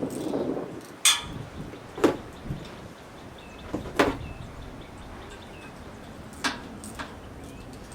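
Sharp knocks and clanks of hand tools and parts being handled during repair work, five separate strikes spread a second or more apart, the first with a brief metallic ring.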